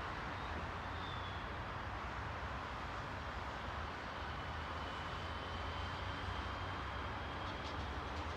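Steady ambient noise of a real-life recording: an even hiss over a constant low rumble. A faint thin whine runs through the middle, and a few faint ticks come near the end.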